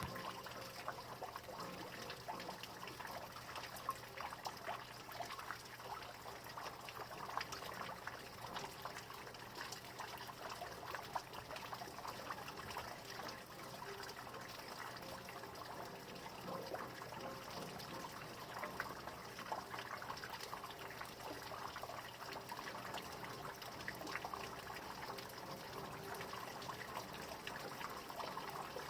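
Rain falling steadily: many small drops ticking over an even hiss.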